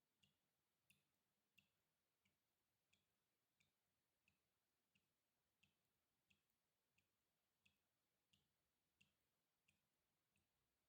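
Water dripping in a slow, even rhythm, about three drops every two seconds, each a short, very faint plink with a soft low knock under it.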